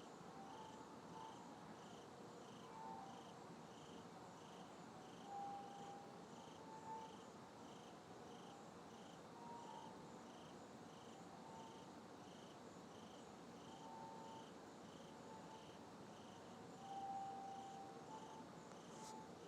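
Faint night ambience: an insect, likely a cricket, chirping evenly about every half second, with short faint steady tones of unknown source coming and going irregularly underneath.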